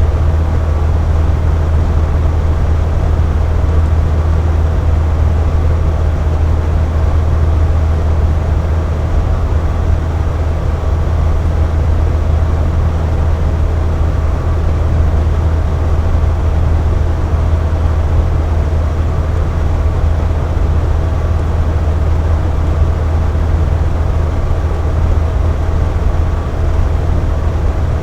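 Box fan running steadily: an even low whooshing hum, with a faint steady tone above it from the motor and blades.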